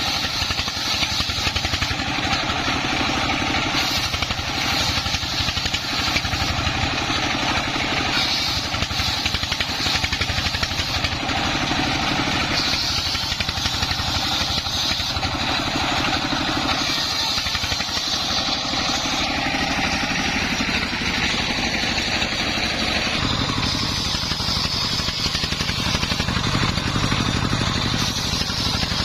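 Dongfeng 24 hp single-cylinder diesel engine running steadily, driving a homemade circular saw rig used to rip timber. The sound grows deeper for the last few seconds.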